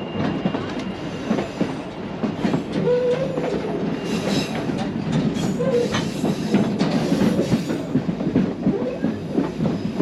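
Narrow-gauge White Pass & Yukon Route passenger train running on the track: a steady rumble with irregular clicking and rattling of the wheels and coach. A few brief squeals come from the wheels on the curve of the loop.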